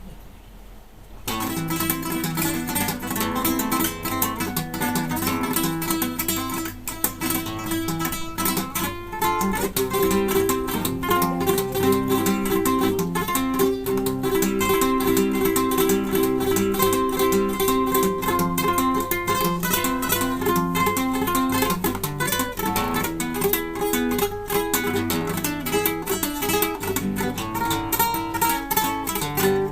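Solo classical guitar playing a well-known piece, starting about a second in.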